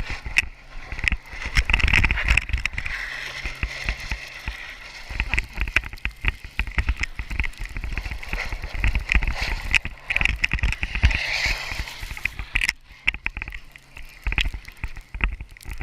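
Jeep engine running under throttle with its tyres spinning through snow, amid heavy rumbling and crackling; the hissing of tyres and snow spray stops abruptly near the end.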